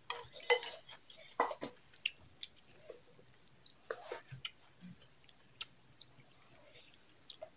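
Close-up eating sounds of rice and pumpkin-chicken curry eaten by hand: wet chewing and lip smacks in scattered short clicks, busiest in the first couple of seconds and sparser after.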